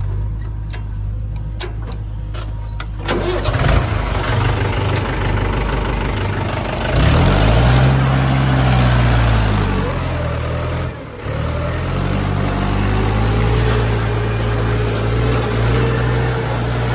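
Heavy diesel engine running steadily, then louder and working hard from about three seconds in. Its pitch rises and falls once between about seven and ten seconds, dips briefly near eleven seconds, then holds steady.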